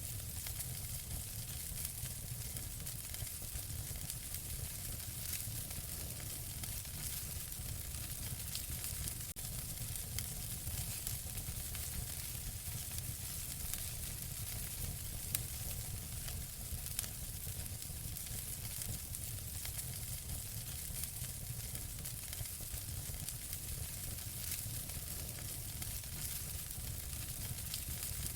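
Wood fire burning in a fireplace: a steady hissing crackle with many small snaps, a low rumble underneath, and two sharper pops about halfway through.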